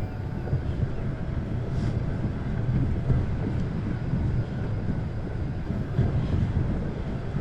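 Steady low rumble of a bicycle being ridden over snow and ice, with wind buffeting the microphone.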